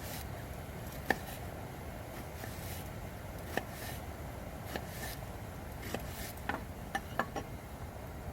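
Knife knocking on a cutting board in a few irregular cuts, likely napa cabbage being cut for a miso oyster hot pot, with a quicker cluster of knocks near the end over a steady low background rumble.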